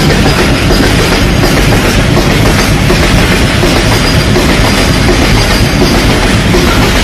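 Open freight wagons loaded with coal running past along the track: a loud, steady rumble of steel wheels on rails.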